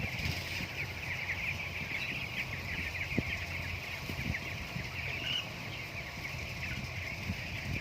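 A flock of broiler chickens peeping continuously, many overlapping high calls at once, over a steady low rumble, with a single knock about three seconds in.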